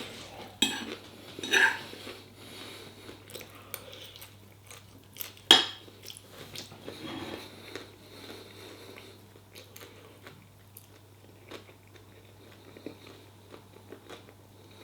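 A person eating chicken pad thai: chewing, with a fork clicking and scraping against the dish at irregular intervals and one sharp clink about five and a half seconds in.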